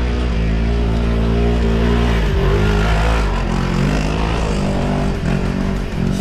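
Side-by-side UTV engines running hard. Their pitch dips and climbs back a couple of times as the drivers come off and back onto the throttle.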